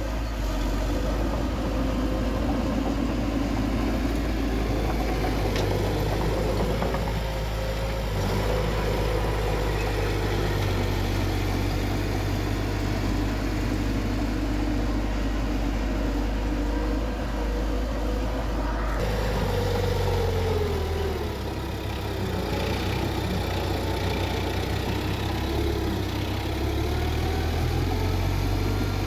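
Bulldozer's diesel engine running steadily as it works. About two-thirds through, the engine note changes abruptly and falls briefly in pitch.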